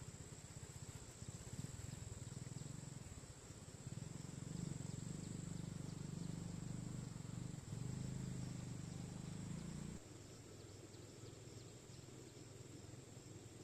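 Insects trilling steadily in rural ambience, over a low rumble that stops abruptly about three-quarters of the way through.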